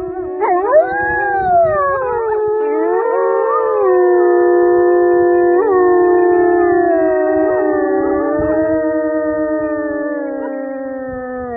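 Canines howling together: long, overlapping drawn-out howls whose pitches glide up and down, then hold and slowly sink near the end.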